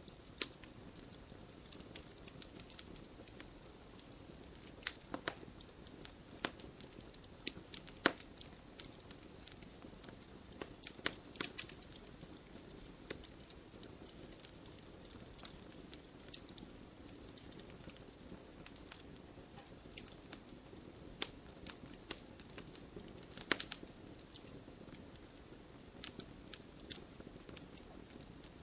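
Wood fire burning in a fireplace: a steady low hiss with irregular sharp crackles and pops, a few louder snaps standing out.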